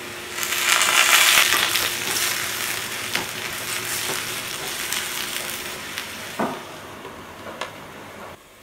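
Sliced baby potatoes sizzling in hot oil in a pan as they are stirred, the sizzle swelling about half a second in and then slowly dying down, with a few light knocks.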